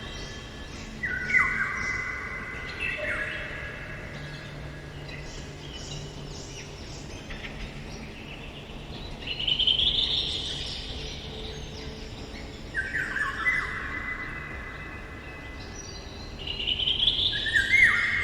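Eurasian golden oriole singing: short whistled phrases of a few notes, repeated every few seconds.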